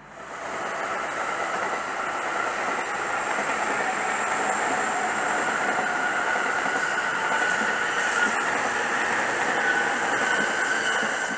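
A train running on the tracks: steady rail noise with a high whine held over it, starting and stopping abruptly.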